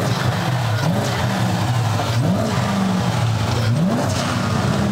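Twin-turbocharged BMW E90 M3 V8 free-revving at standstill through its exhaust. The engine is blipped up sharply and let fall back to idle, again and again, about every one and a half to two seconds.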